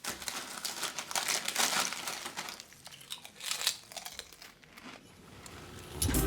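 Irregular crinkling and crunching, as of material being crumpled or handled, for about five seconds; music starts near the end.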